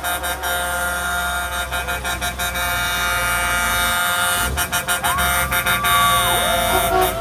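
Parade trucks sounding their air horns, several held horn notes overlapping with the hum of passing vehicles. About five seconds in, one horn note swoops up, holds and drops away.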